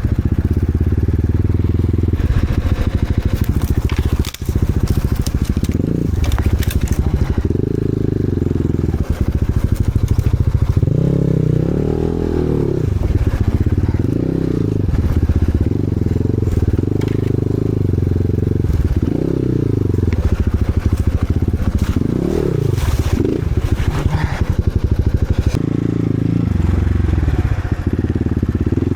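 Enduro motorcycle engine revving up and down over and over as it is ridden, its pitch rising and falling every second or two.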